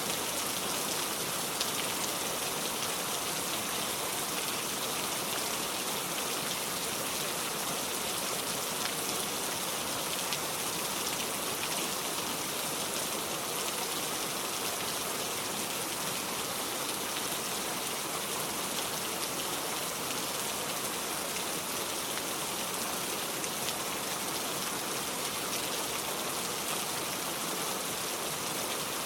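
Heavy rain falling steadily, an even hiss of many drops with no thunder.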